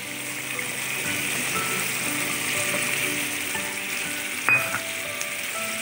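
Potatoes and spiced masala frying in hot oil in a pan, sizzling steadily as green peas go in. One sharp clink about four and a half seconds in.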